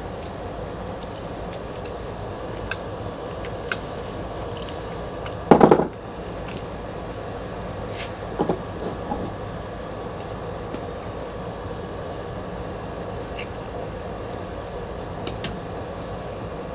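Ceiling fan parts and hand tools being handled during scrapping: scattered small clicks, a loud short clatter about five and a half seconds in, and a few lighter knocks a few seconds later, over a steady background hum.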